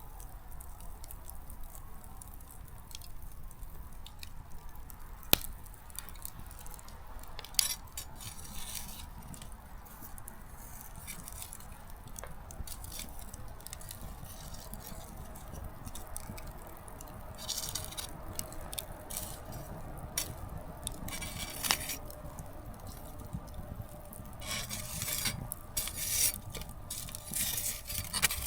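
Small wood campfire crackling, with scattered pops from the burning firewood: one sharp pop about five seconds in and denser bursts of crackling in the second half.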